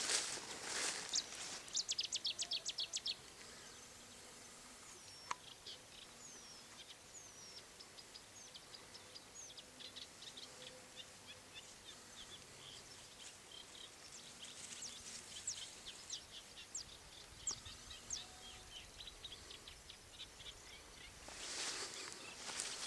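Small birds chirping and calling in short high notes and quick sweeps, with a fast run of ticking calls about two seconds in. Near the end, rustling footsteps through tall grass.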